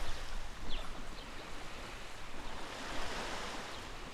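Steady rush of running water, with a few faint high bird chirps in the first couple of seconds.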